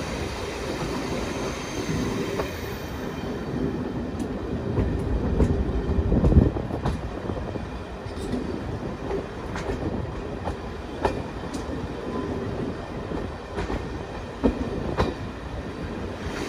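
Train riding along the rails: a steady rumble from the wheels, with irregular clicks and knocks from the track and one louder thump about six seconds in.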